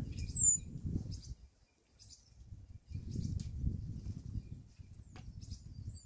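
Small birds giving a few thin, high, falling chirps, over a low rumbling noise that comes and goes.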